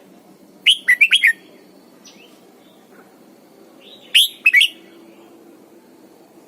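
Red-whiskered bulbul singing two short phrases of quick whistled notes, four notes about a second in and three more around four seconds in.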